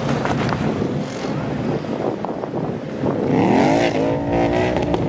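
Car engine revving up hard about three seconds in and held at high revs, the wheels spinning as the car drifts on snow, over a continuous rumble of running engines.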